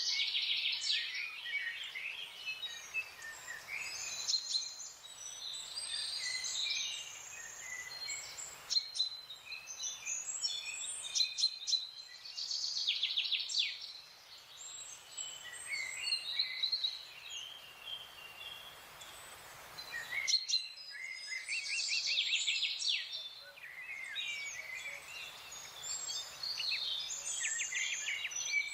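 Several wild songbirds chirping, trilling and calling, their notes overlapping, over a steady forest hiss. The background changes abruptly a few times, about 4, 9 and 20 seconds in.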